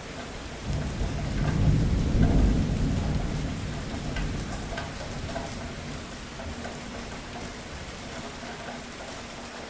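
Steady rain falling and pattering, with a low rumble of thunder that swells about a second in, peaks around two seconds and dies away over the next few seconds.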